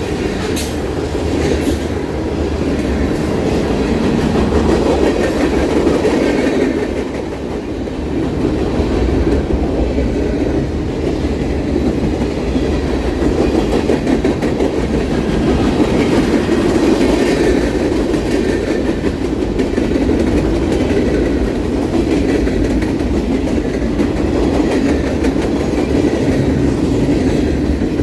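Freight train rolling past, a steady rumble of its cars' wheels on the rails with some clicking.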